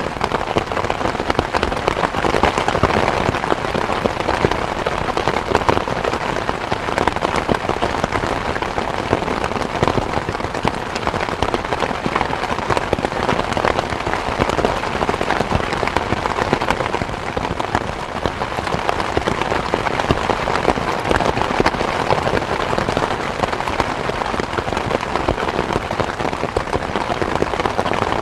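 Steady rain falling, a dense even patter of countless small drops that holds unchanged throughout.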